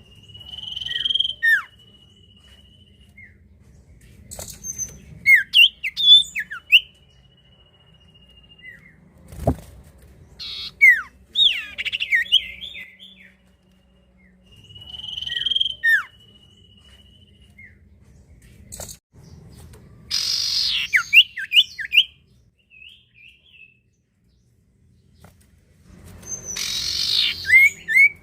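Common iora (sirtu / cipoh) singing in several bouts: long steady whistled notes alternating with quick downward-sweeping chirps and rapid trills. A couple of harsher, scratchier bursts come about two thirds of the way through and near the end.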